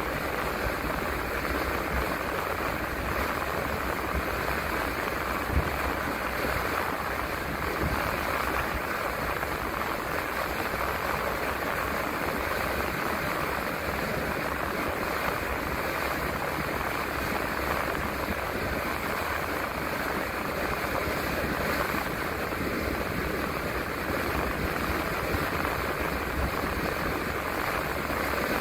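Steady cabin noise of an empty bus driving on the road: an even rush of engine, tyre and road noise, with one brief knock about five and a half seconds in.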